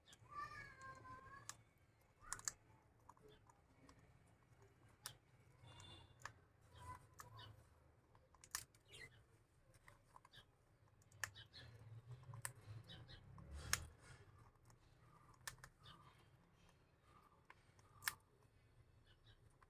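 Pet lovebird giving a short wavering chirp about a second long at the start, then quiet scattered sharp clicks and taps, with a few faint soft chirps in the second half.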